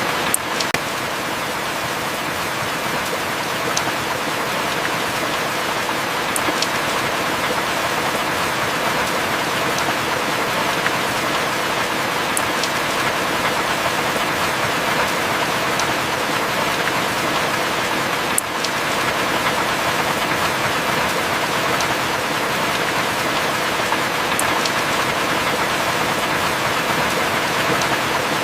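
Steady heavy rain, an even hiss of falling water with a few sharp drop ticks scattered through it. No thunder.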